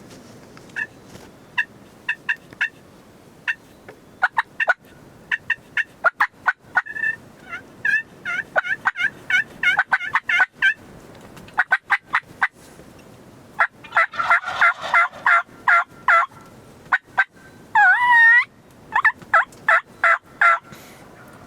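Wild turkeys calling: many short, sharp clucks and cutts in quick runs, then a burst of yelps, and a single rattling gobble about three-quarters of the way through.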